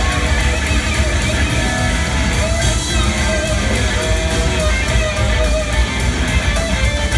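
Live rock band jamming: electric guitar over bass and drums, with a long held note about midway through.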